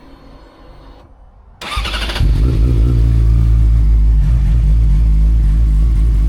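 A motorcycle engine starts about a second and a half in, cranking briefly and catching, then runs loud and steady.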